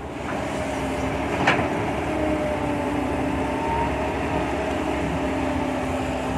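Kobelco SK120-5 hydraulic excavator working: steady engine and hydraulic drone carrying a few held whining tones, with a single short knock about a second and a half in.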